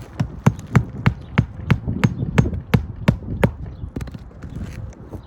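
Hammer driving roofing nails through a 3-tab asphalt shingle: a steady run of about a dozen blows, about three a second, that stops about three and a half seconds in.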